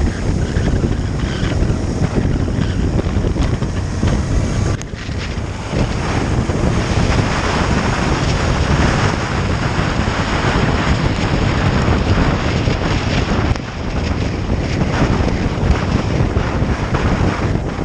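Wind rushing over the microphone of a motorcycle under way, with engine and road noise beneath it. The loudness dips briefly twice, about five seconds in and again near fourteen seconds in.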